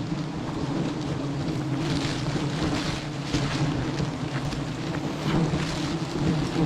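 Honeybees humming steadily around an opened log hive, mixed with wind on the microphone.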